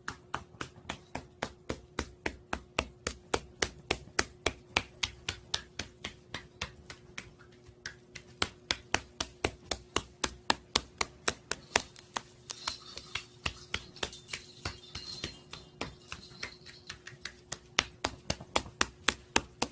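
Sharp clicks or taps repeating evenly, about three to four a second, over a faint steady hum.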